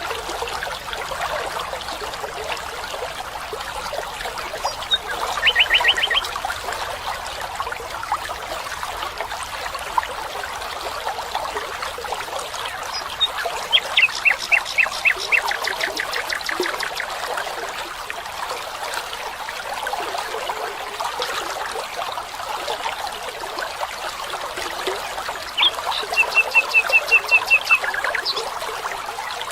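Steady trickle of a small stream, with a bird breaking in three times with a quick series of repeated notes: about five seconds in, again midway in a longer run, and near the end.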